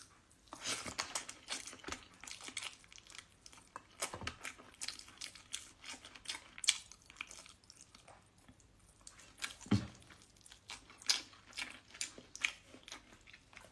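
A person chewing mouthfuls of rice and fish eaten by hand, with irregular wet clicks and smacks of the mouth.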